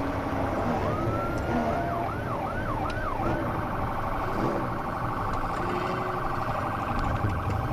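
Police cruiser siren running during a high-speed pursuit: a wail sweeping up and down about four times, then switching about three seconds in to a fast yelp, over steady road and engine noise.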